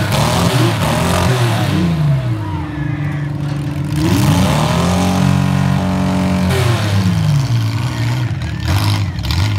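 Engines of modified compact demolition derby cars revving, their pitch climbing and falling again and again. Near the middle one engine is held high for a second or two before dropping back.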